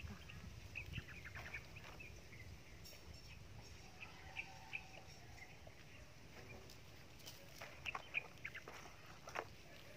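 Faint bird calls: scattered short chirps clustered about a second in and again near the end, with a short held call in the middle, over a low steady rumble.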